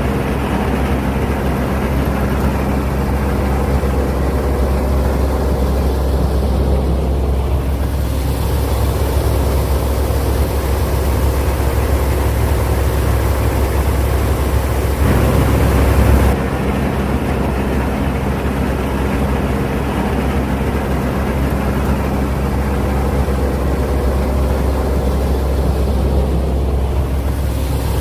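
Claas Mercator 50 combine harvester running steadily while harvesting wheat, with an even engine hum that grows briefly louder for about a second a little past the middle.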